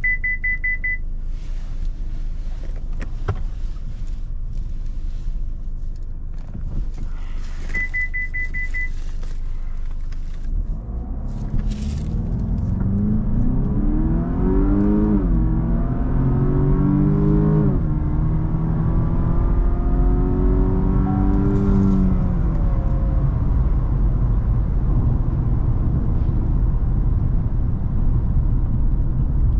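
Cadillac CTS's 3.6-litre twin-turbo V6 accelerating hard through the gears. It climbs in pitch, with quick upshifts about 15 and 17.5 seconds in, then eases off into a steady low road rumble. Earlier, over the low cruising rumble, the car gives two short runs of rapid electronic beeps, near the start and about 8 seconds in.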